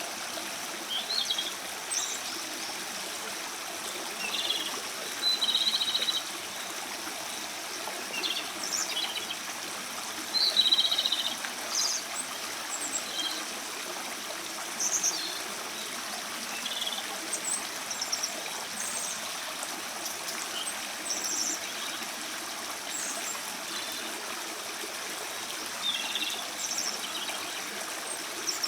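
Japanese robin singing: short, high phrases repeated every second or two, with the steady rush of a stream beneath.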